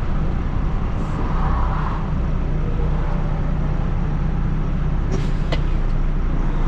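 Kenworth T680 semi truck on the move: steady engine drone and road rumble, with a couple of short clicks about five seconds in.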